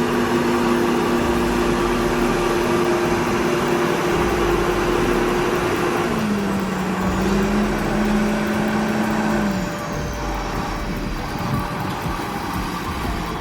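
Tractor engine running steadily. About six seconds in its note drops lower and holds, then fades out near ten seconds, leaving a rougher rumble.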